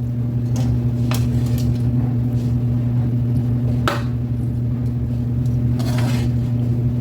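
Kitchen utensils clinking and scraping against dishes: a sharp clink about a second in, another near four seconds, and a short scrape near six seconds. Under them runs a steady low hum.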